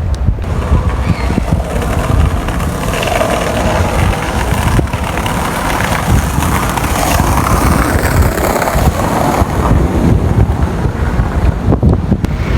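Wind buffeting the microphone, a heavy, fluttering rumble over a steady outdoor din.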